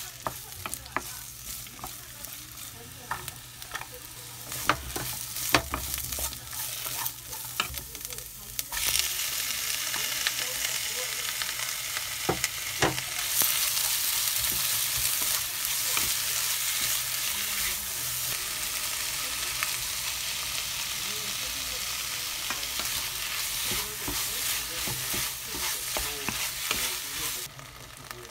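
Squid, onion and carrot being stir-fried in a nonstick wok with a wooden spatula. At first the spatula scrapes and taps on the pan with little sizzle. About nine seconds in, a loud, steady frying sizzle starts under the stirring, and it cuts off sharply near the end.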